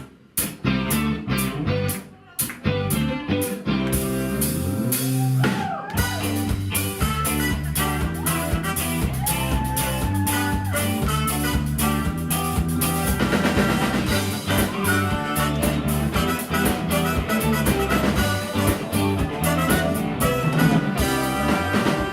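Live rock band playing a song's instrumental intro. Guitar notes come first with gaps between them, then the drum kit and the full band come in about six seconds in and carry on at a steady beat.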